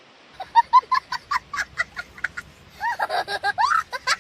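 People laughing: a quick run of short giggles that starts about half a second in, then longer, louder laughter in the last second and a half.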